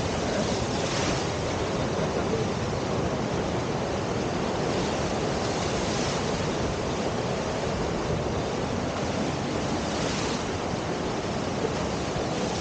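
Steady rush of river water at a standing surf wave, swelling briefly a few times.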